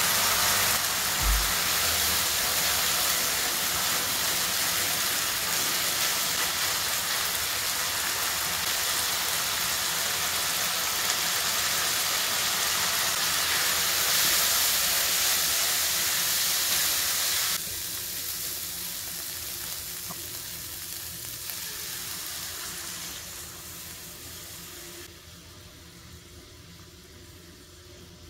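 Diced chicken sizzling in hot fat in a non-stick pan as it is stirred with a spatula, with a low knock about a second in. The sizzle drops sharply about two-thirds of the way through and grows quieter again near the end.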